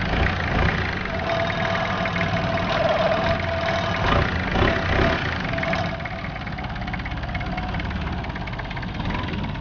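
Longtail boat's engine running with a steady low rumble, easing slightly about six seconds in.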